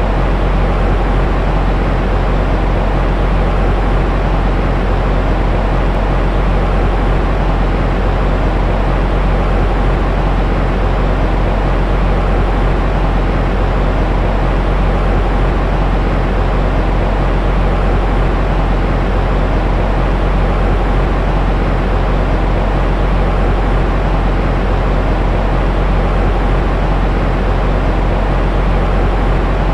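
Continuous white noise for a baby's sleep: an even, unchanging rush that is heaviest in the deep bass, a low rumble under a softer hiss.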